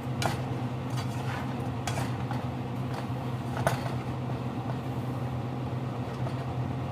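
A few light clinks of a metal utensil against a pot or pan during cooking, over a steady low hum.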